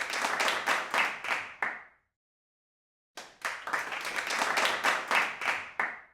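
Hand clapping, about four to five claps a second, in two runs with a dead-silent break of about a second in the middle; it cuts off abruptly at the end.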